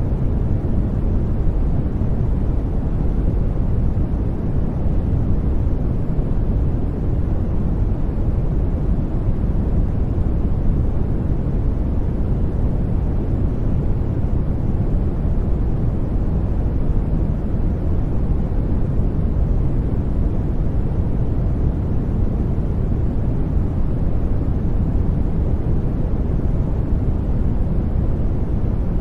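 Steady sleep 'white noise', an unbroken hiss weighted toward the low end, deep and rumbling rather than bright, with no change throughout.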